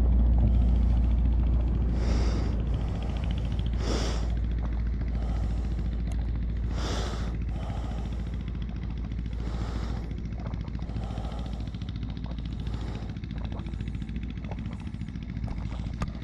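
A man breathing hard and steadily after heavy exertion, with a breath about every second and a half, over a low steady rumble that fades over the first few seconds.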